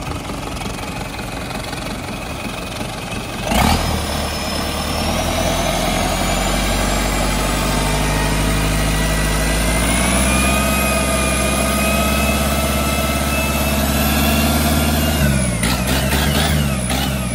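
Hyundai D4AL four-cylinder turbo diesel engine starts with a sudden catch a few seconds in and runs steadily, a high whine slowly climbing in pitch as it runs. Near the end it is shut off and runs down to a stop.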